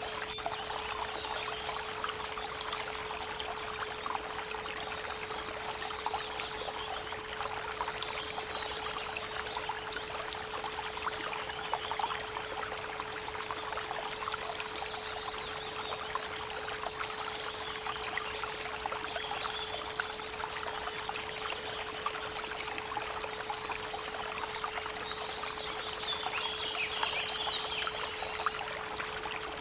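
Creek water running steadily, with a steady 432 Hz pure tone held underneath and birds giving short chirps and trills several times over it.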